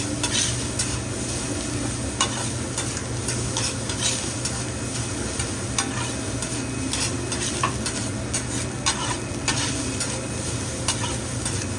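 Fried rice sizzling on a hibachi griddle while the chef stirs it, with frequent irregular clicks of metal spatulas scraping and tapping on the hot plate over a steady low hum.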